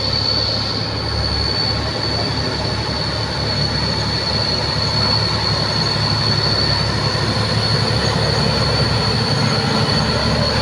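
Diesel engine of a truck loaded with oil-palm fruit, running steadily under heavy load as it climbs a steep hill, with a constant high whine over it.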